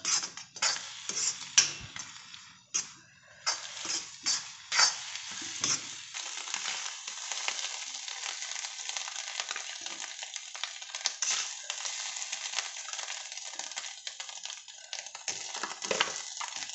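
Egg bhurji sizzling in a black kadai as a slotted steel spoon stirs and scrapes it. Sharp scrapes and taps of the spoon against the pan come in the first six seconds, then a steady sizzle.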